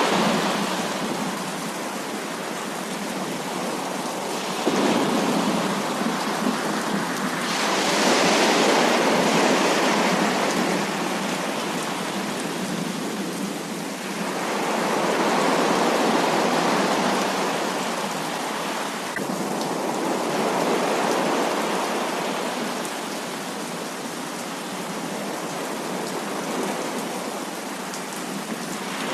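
Heavy rain pouring in a continuous hiss that swells and eases in waves every few seconds, with a sudden surge about five seconds in.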